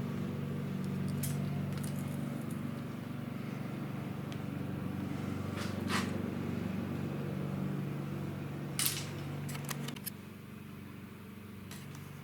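Steady mechanical hum, quieter near the end, with a few sharp metallic clicks and clinks.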